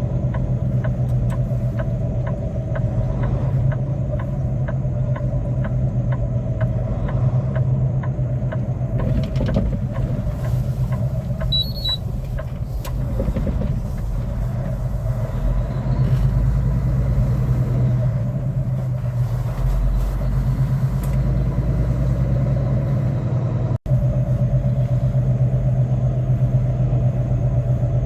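Semi-truck engine running steadily, heard as a constant low drone, with a light regular ticking through the first nine seconds or so. The sound drops out for an instant near the end.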